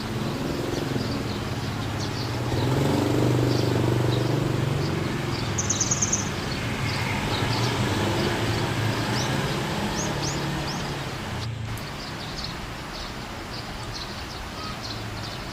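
A motor vehicle rumbles past, swelling for a few seconds and then fading. Over it a small bird gives short, high chirps again and again, with one brief trill about six seconds in.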